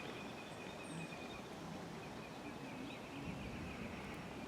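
Quiet outdoor ambience: a steady faint background hiss with a thin, high chirping running through it, with no thunder heard.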